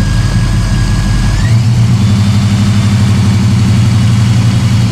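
Car engine idling, then revved up about a second and a half in and held steady at the higher speed. The high beams, blower motor and electric water pump are on as load for a loaded alternator output test.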